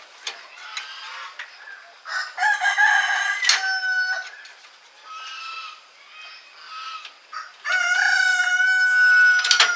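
A rooster crowing twice: one long crow about two seconds in and another near the end, each holding its pitch and then dropping off, with softer chicken calls between.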